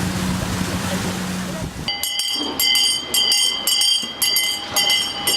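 A bell rung rapidly, about two strikes a second, starting about two seconds in, signalling the start of a fish auction. Before it, a low steady hum.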